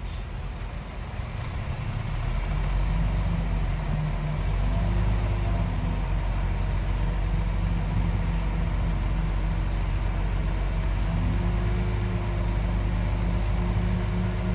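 Heavy diesel engine of earthmoving machinery running, growing louder about two seconds in and again a couple of seconds later, then holding steady.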